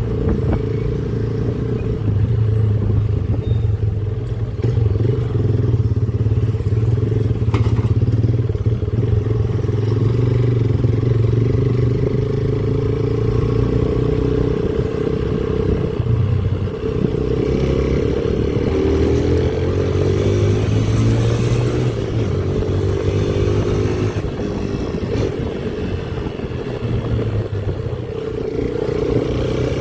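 Motorcycle engine running on the move, its note rising and falling as the rider accelerates and shifts, most clearly in the second half.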